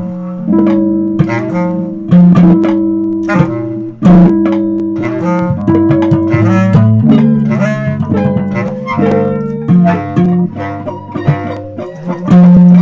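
Instrumental music: plucked guitar notes over bass, some notes struck and left ringing.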